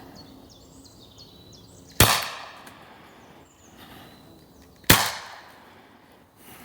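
Two shots from an Umarex TP50 .50-calibre CO2 air pistol, about three seconds apart, each a sharp crack that dies away quickly.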